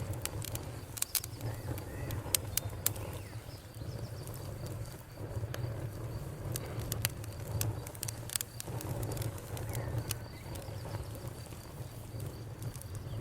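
Campfire crackling, with many sharp irregular pops and snaps over a steady low rumble of burning, and birds calling in the background.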